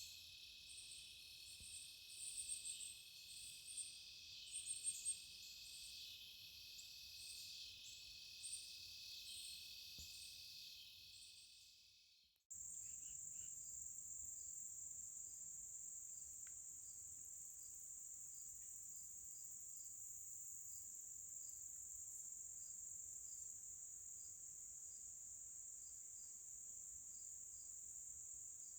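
Insect chorus: a dense high trill with scattered chirps fades out about twelve seconds in. It then cuts abruptly to a steady high cricket trill with evenly spaced chirps.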